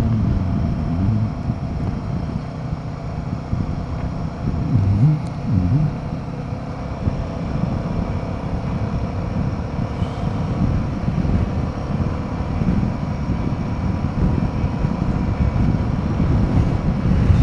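Royal Enfield Himalayan 450's single-cylinder engine running under way, with wind rushing over the microphone. The engine pitch briefly dips and rises a couple of times, near the start and about five seconds in.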